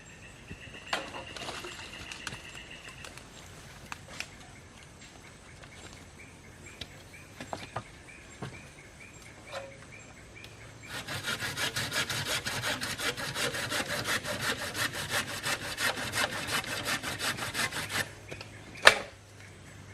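Hand saw cutting through wood in a quick, steady run of strokes that starts about halfway in and lasts around seven seconds, followed by a single sharp knock near the end.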